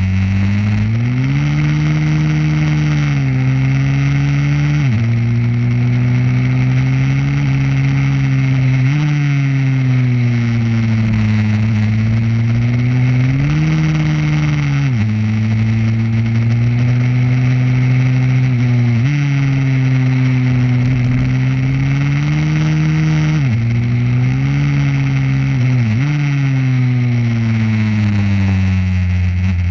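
Small pit bike motorcycle engine running hard on track, its pitch climbing and falling over and over, with sudden drops every few seconds.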